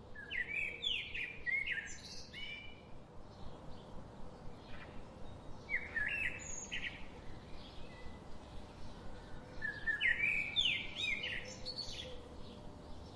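Birds chirping in three bursts of quick, sharp, gliding notes, each burst lasting a second or two, with short pauses between them.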